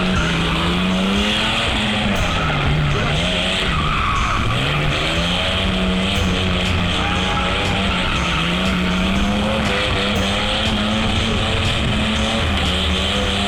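A vehicle engine revving up and down repeatedly over continuous tyre skidding and squeal, as in a drift or burnout.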